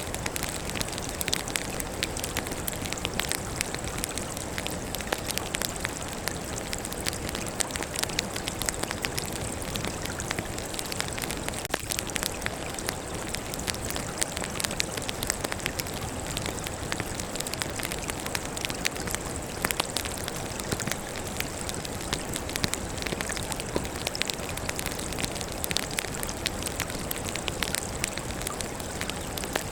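Wood fire burning, with dense, irregular crackling and popping of the logs over a steady hiss.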